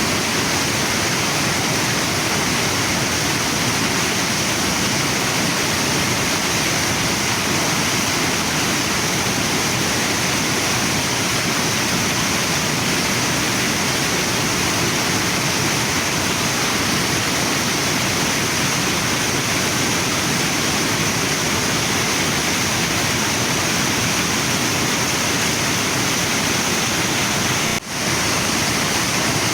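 Waterfall and river water rushing steadily, with a brief dip in level near the end.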